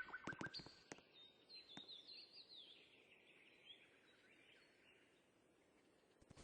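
Faint bird chirping with a few soft clicks in the first couple of seconds, fading to near silence.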